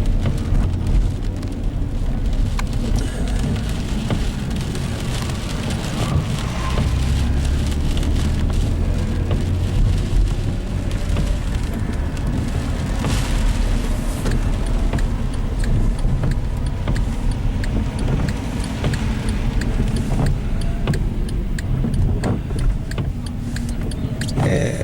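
Car cabin sound while driving in the rain: a steady low rumble of engine and tyres on wet road, with rain ticking on the windshield and roof.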